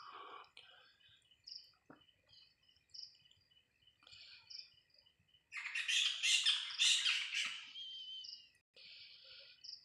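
Crickets trilling steadily with repeated short chirps. Just past halfway a loud, harsh bird squawk cuts in and lasts about two seconds.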